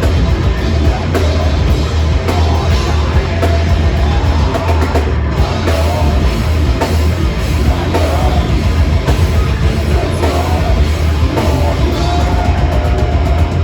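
Heavy metal band playing live and loud: drum kit pounding under heavily amplified instruments, continuous with no breaks.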